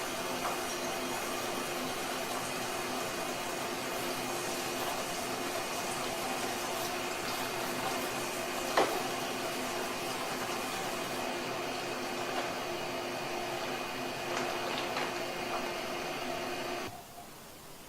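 Water spray gun jetting onto the cross-flow blower wheel of a wall-mounted air-conditioner indoor unit: a steady hissing spray with a steady hum under it and a single short tick about 9 seconds in. The spray cuts off about 17 seconds in.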